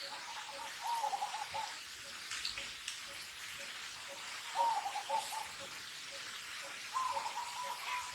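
Baby macaque crying: short bursts of high, wavering coo calls, then one long steady cry near the end.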